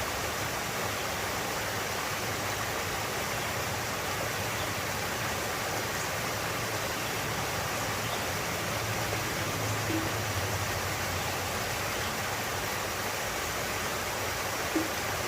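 Steady rush of a stream's water flowing over rocks. A faint low drone comes in for a few seconds around the middle, and a single brief knock sounds near the end.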